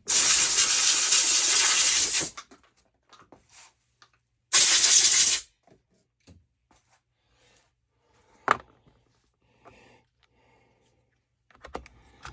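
Two loud hissing blasts from a pressurised nozzle, the first about two seconds long and the second about a second, followed by a single sharp click.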